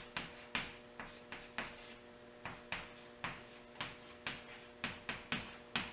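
Handwriting: a run of short scratchy pen or marker strokes, about two a second and unevenly spaced, over a steady electrical hum.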